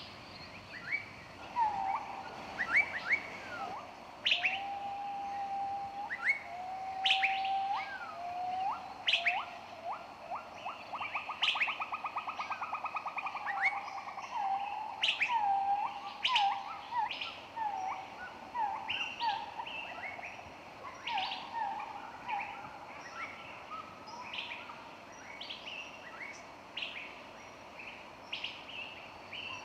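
Several songbirds singing together: many short, sharp high chirps throughout, and from about 2 to 22 s a lower bird repeating whistled notes with a fast trill in the middle. A faint steady hiss lies under the song.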